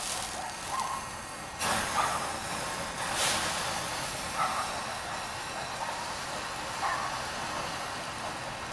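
Butane hot-air-balloon burner running at full pressure: a steady hiss of gas and flame, with louder surges near the start, about a second and a half in, and about three seconds in.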